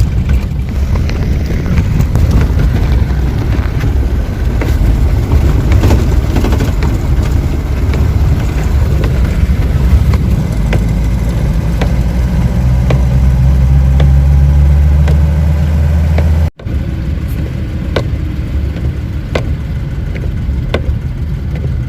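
Old car running with a loud low rumble and scattered rattles and knocks. A steady low hum builds up over several seconds, then everything breaks off suddenly about sixteen and a half seconds in. The rumble comes back lighter afterwards.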